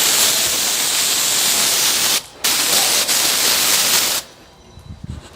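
Aerosol brake cleaner spraying in two long hissing bursts, with a short break about two seconds in. The spray stops about four seconds in.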